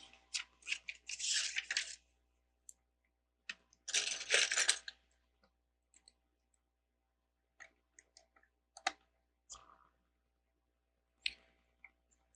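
Loose plastic LEGO bricks rattling as hands sift through a pile of pieces, in two bursts of about two seconds and one second, followed by scattered single clicks and taps of bricks being picked up and handled.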